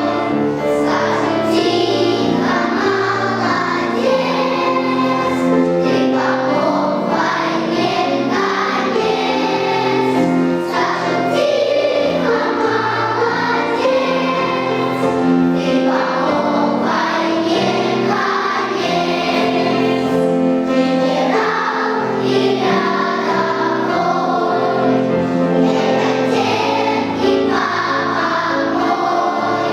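Children's choir singing a song in unison over instrumental accompaniment, steady and continuous.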